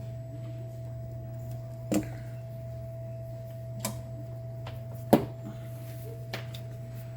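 Light clicks and taps of small tools against a circuit board during soldering-iron touch-up work, four of them spread over several seconds, the third the sharpest. Under them runs a steady electrical hum with a constant high tone.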